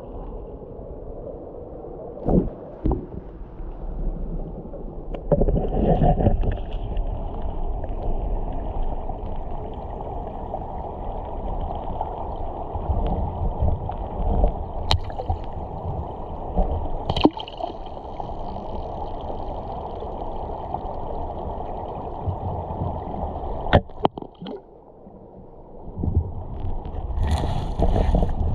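Shallow river water gurgling and splashing, with a few sharp knocks and a short lull near the end.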